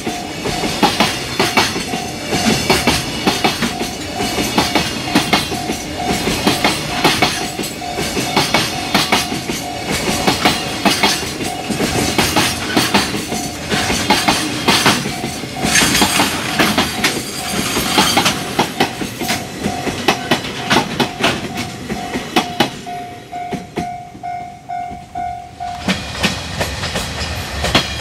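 Long JR Freight container train of Koki flatcars passing at speed, its wheels striking the rail joints in a rapid, loud clickety-clack. A repeating tone sounds behind it throughout. Near the end the wagon noise dies away, the tone stops, and another train's running noise begins.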